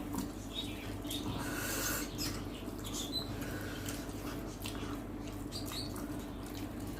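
Close-up eating sounds: chewing and lip-smacking, with many small wet clicks and brief squeaks, over a steady low hum.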